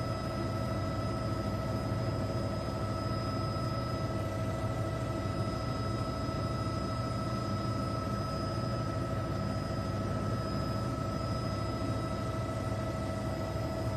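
Steady engine drone with a low rumble and several constant whining tones, unchanging throughout.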